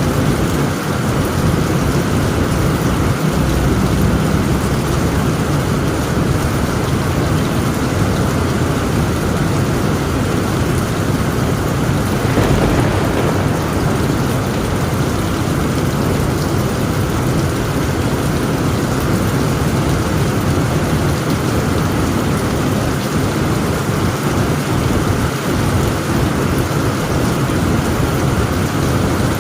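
Heavy rain drumming steadily on a tent roof, with a continuous low rumble of thunder underneath.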